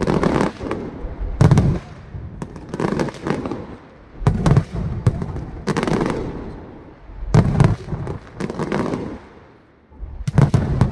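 Aerial fireworks shells bursting in a steady barrage: a deep boom about every second and a half, each followed by crackle and a fading echo.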